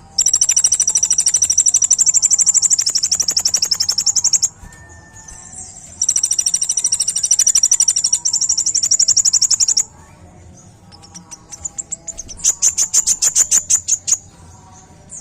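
Kolibri ninja sunbird singing its rapid, machine-gun-like 'tembakan' song: very fast, high trills in three long bursts, the first about four and a half seconds, the second about four, and a shorter one near the end, with softer chirps between them.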